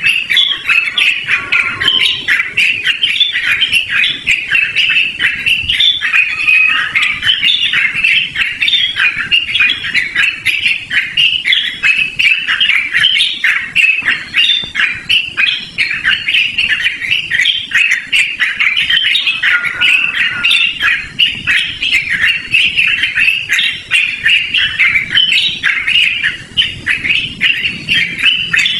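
Yellow-vented bulbul (trucukan) singing a long, unbroken run of rapid, loud chattering notes.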